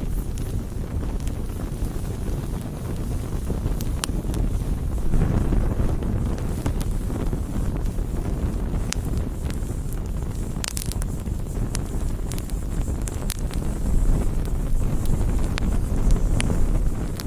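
Wood campfire burning: a steady low rumble of flames with scattered sharp crackles and pops from the burning wood.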